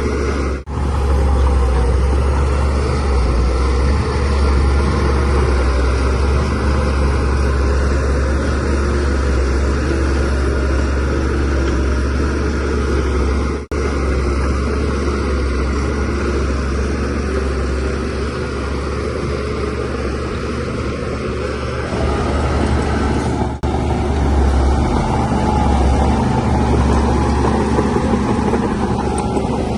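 DH17C3 bulldozer's diesel engine running steadily under work, a deep continuous drone. It breaks off for a split second three times, about a second in, near the middle and about two-thirds through.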